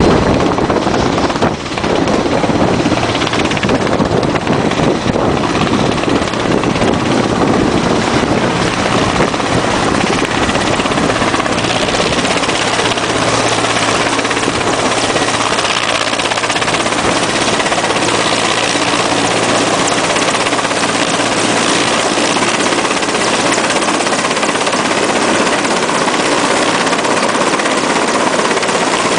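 Mi-8 helicopter's twin turboshaft engines and rotors running, a loud, steady drone with a low hum underneath and a brief dip in level about a second and a half in.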